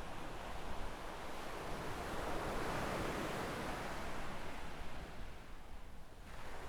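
Waves washing onto a sandy beach: the surf noise swells to a peak in the middle, fades near the end, then picks up again with the next wave.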